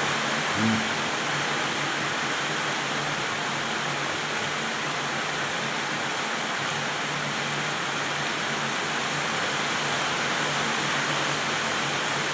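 A steady, even hiss like rushing water, holding the same level throughout.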